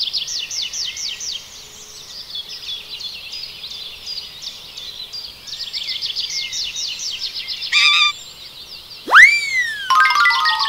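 Birds chirping in fast trills of short, high, falling notes. A little after nine seconds a loud whistle sweeps up and slides back down, then a run of tones steps downward near the end.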